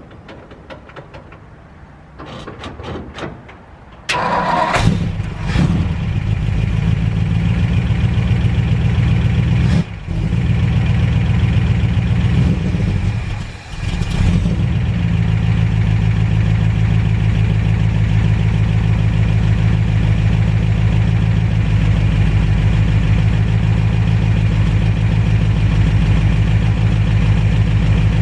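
1958 Ford F100's 292 Y-block V8 cranking over for about four seconds on a cold start after sitting over a year, then catching on starter fluid. It stumbles briefly twice, then settles into steady running.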